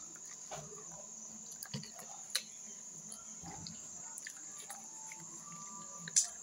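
Wet chewing and mouth clicks of a person eating beef off the bone: a few short, sharp wet clicks, the loudest about two and a half seconds in and near the end, over a steady high hiss.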